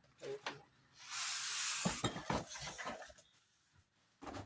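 Packaging being handled and opened: a brief tearing rush about a second in, then a run of light clicks and knocks, and a single knock near the end.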